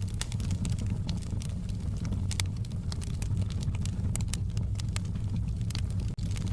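Wood fire in a fireplace crackling, with frequent sharp pops and snaps over a steady low rumble of the flames. The sound cuts out for an instant near the end.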